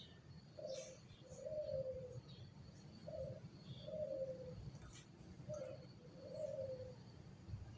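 Faint, low cooing bird calls, each a short note followed by a longer, slightly falling one, repeated about every two and a half seconds.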